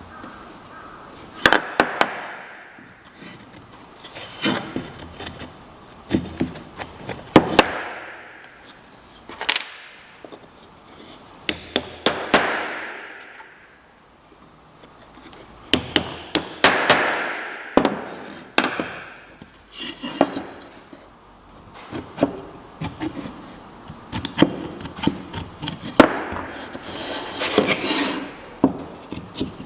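Sharp wooden knocks and taps from hand work on white oak, coming in clusters every two or three seconds, each cluster followed by a short hiss that fades.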